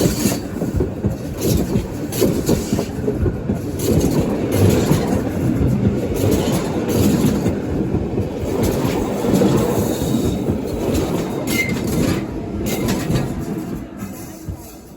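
Rhaetian Railway metre-gauge train running past, its wheels clattering over the rail joints, the sound dying away near the end.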